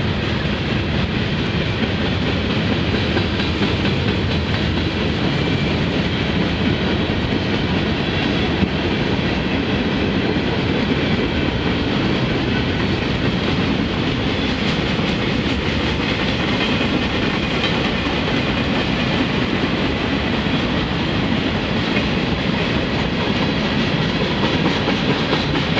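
Freight train cars, boxcars and centerbeam lumber flatcars, rolling past close by: steel wheels on the rails make a steady, loud rolling noise with faint repeated clicks.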